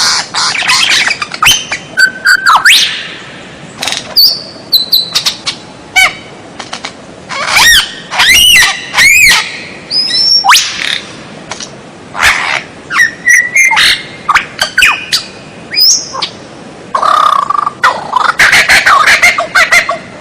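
White-rumped shama (murai batu) singing a long, varied song: loud gliding whistles, rapid note runs and sharp clicking notes in short phrases separated by brief pauses.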